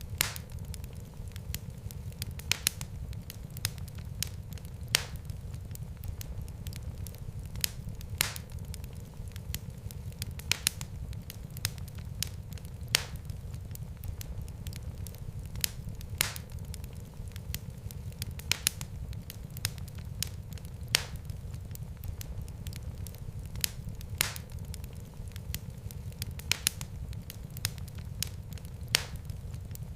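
Fireplace fire crackling, with sharp pops every two to three seconds over a steady low rumble of flames.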